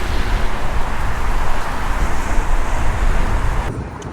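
Train running, heard inside the carriage: a steady rumble and rushing noise that drops off abruptly near the end.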